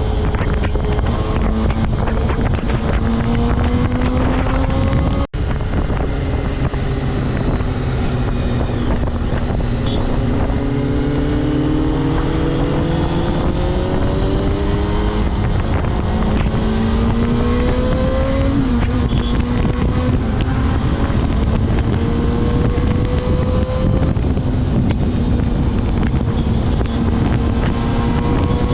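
Honda CBR250RR MC22 inline-four engine under way, climbing in pitch several times with drops between as it accelerates and shifts up, over heavy wind noise on the helmet microphone. The sound cuts out for an instant about five seconds in.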